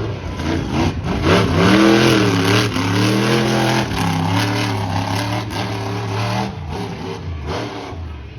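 Monster truck engine revving, its pitch rising and falling in several blips during the first few seconds, then holding steadier before easing off about two seconds before the end.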